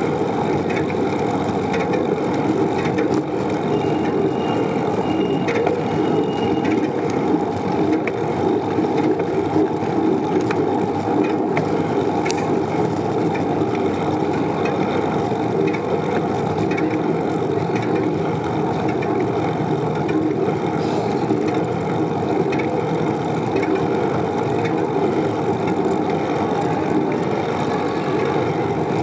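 Steady rushing noise of a bicycle rolling along a paved road, tyres on the surface mixed with wind on the microphone, even in level throughout.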